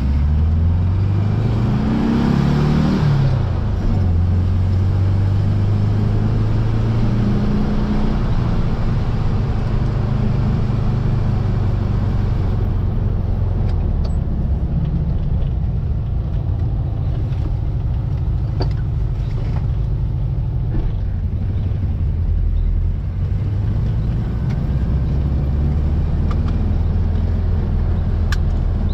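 1700cc air-cooled VW flat-four engine of a Baja Bug accelerating: the revs climb for about three seconds, drop at a gear change, then hold steady as the car pulls along at a constant engine speed, with small rises and falls later on.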